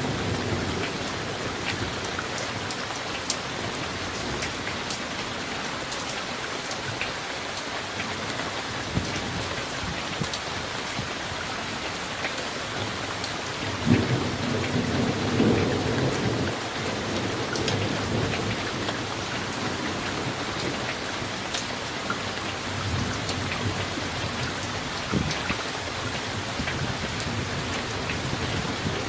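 Summer thunderstorm: steady rain pattering, with thunder rumbling in the low end. A sharper clap about halfway through rolls on for a few seconds, and a weaker rumble follows later.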